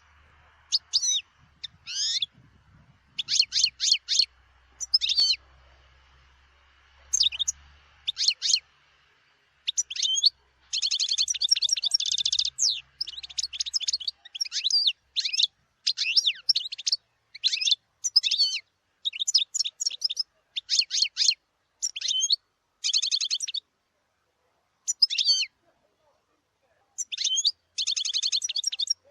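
A European goldfinch singing: quick bouts of liquid, twittering notes and fast buzzy trills, broken by short pauses of a second or two.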